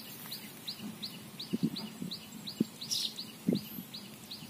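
A small bird chirping in a quick, even series, about four short high downslurred chirps a second. A few soft low thumps sound along with it.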